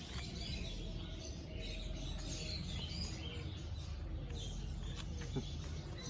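Small birds chirping repeatedly, many short high calls, over a steady low background rumble.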